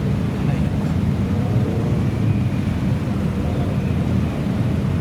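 Modified car's engine running with a steady deep rumble, held at an even speed with no revving.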